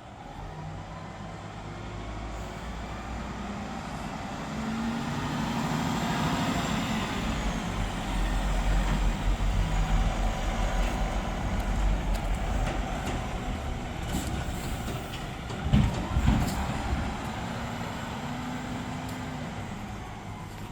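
Garbage truck's engine running and revving up, growing louder partway through and then easing back, with two sharp thumps about three-quarters of the way in.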